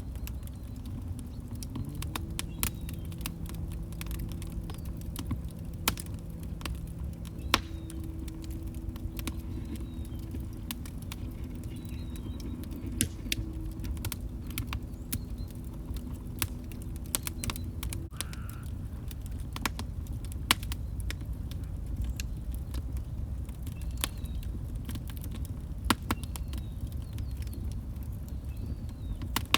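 Crackling log fire: a steady low rumble of burning with irregular sharp pops and crackles, the loudest pop about seven seconds in. A faint low hum sits under it and stops about eighteen seconds in.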